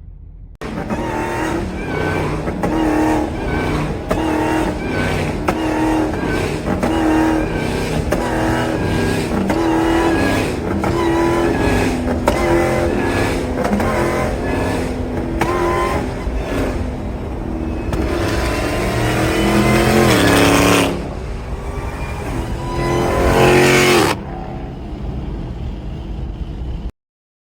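Car engine revving hard again and again, its pitch climbing and falling, with two long loud rising revs near the end. It starts abruptly and cuts off suddenly.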